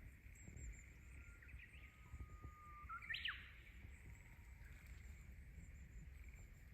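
Quiet outdoor ambience with a faint steady high hum and a low rumble. About three seconds in comes a brief bird call: a thin held whistled note, then a few quick sharp sweeps.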